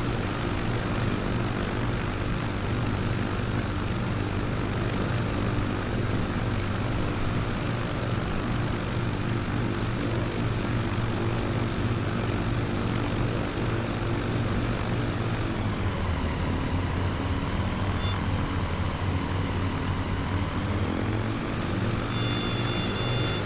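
Propeller aircraft engine running steadily. Its note drops about two-thirds of the way through, then climbs again. A thin, steady high tone starts near the end.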